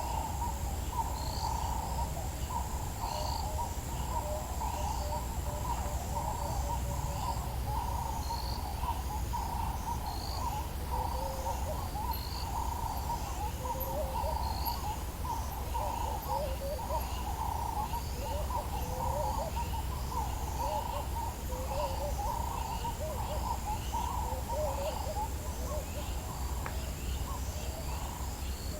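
Dawn chorus in the African bush: many birds calling together in a dense, continuous overlapping chatter, with a steady high insect trill that stops about a quarter of the way in and comes back near the end. A low steady rumble lies underneath.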